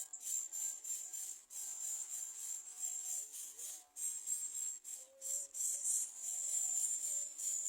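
A steady high-pitched insect drone, broken now and then by brief breaks, with faint short low tones beneath it.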